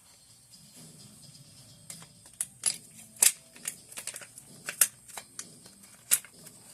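A run of irregular sharp metallic clicks and taps from AK-47 rifle parts being handled and fitted, several of them loud.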